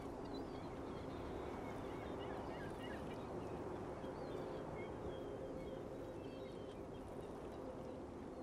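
Birds chirping and calling in short scattered notes over a steady background hum, the calls busiest in the first few seconds and thinning out after.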